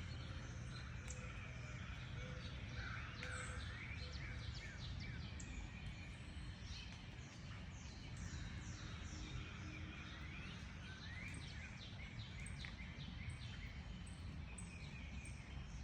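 A chorus of small birds chirping and twittering, many short, quick falling notes overlapping, over a steady low background rumble.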